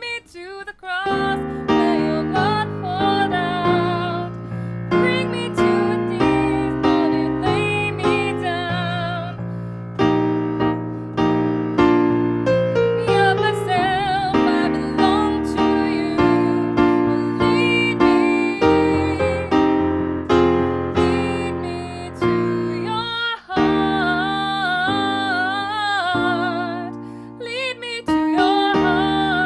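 Piano playing a slow worship song while a woman sings with vibrato; the music dips briefly about two-thirds of the way through.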